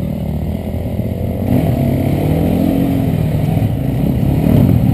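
Enduro motorcycle engine revving, its pitch rising and falling, growing louder about a second and a half in.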